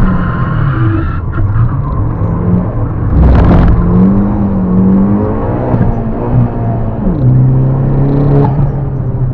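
Turbocharged Fiat Panda 100HP engine, fitted with a Mitsubishi TD04 turbo, driven hard: the revs fall near the start, a short rush of noise comes about three seconds in, then the engine pitch climbs and drops again, falling sharply about seven seconds in as it changes gear.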